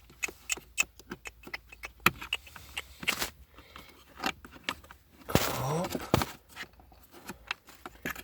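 Irregular light clicks and rattles of the plastic arms and linkage of a VW Golf 5 air-flap mechanism (V71 recirculation flap) being fitted and moved into position by hand.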